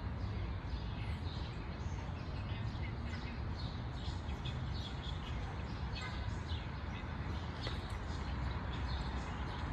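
Small birds chirping over and over, short high calls scattered throughout, above a steady low outdoor rumble.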